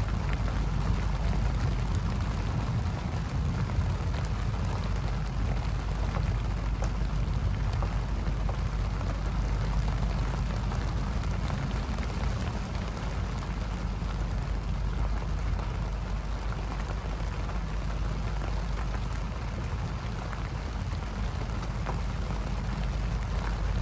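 Steady rain in a storm, with a constant low rumble beneath it.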